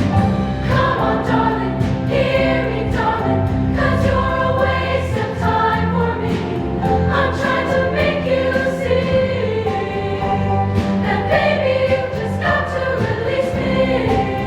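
Show choir singing together over a band accompaniment with a steady beat.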